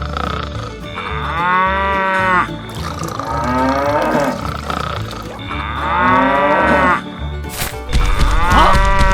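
Drawn-out, cow-like pitched calls, each about a second long, repeating several times over background music with a steady low bass.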